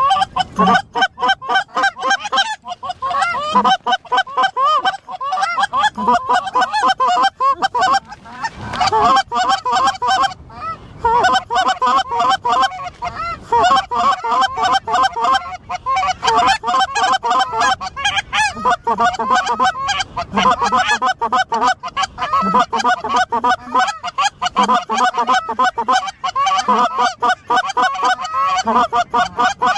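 Dense, continuous chorus of snow goose calls: many rapid, overlapping high honks and yelps with no break, the light-goose calling used to pull in a flock.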